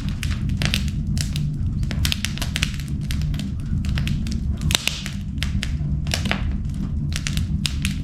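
Wood fire burning in an indoor fireplace, crackling with frequent irregular sharp pops over a steady low rumble.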